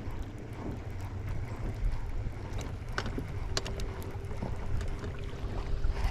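Wind buffeting the microphone and water noise around a small fishing boat, with scattered light clicks. A faint steady hum comes in about halfway through.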